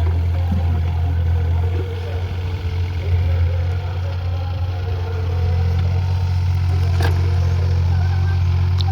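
Heavy diesel engine of a construction machine running steadily with a deep hum and light clatter, and a short sharp knock about seven seconds in.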